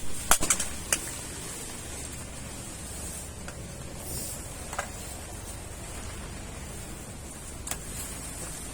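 Wood fire burning: a few sharp crackles and pops, several close together at first, then single pops further apart, over a steady low rustling hiss.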